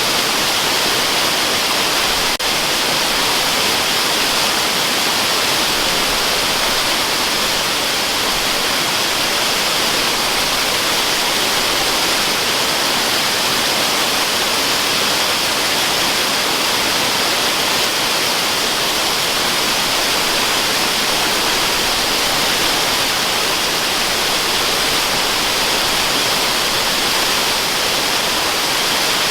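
Waterfall: a steady, unbroken rush of falling water, even and hissy, used as white noise.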